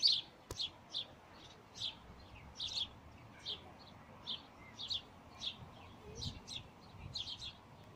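Sparrows chirping: a steady run of short, high chirps, about two or three a second, with a single faint click about half a second in.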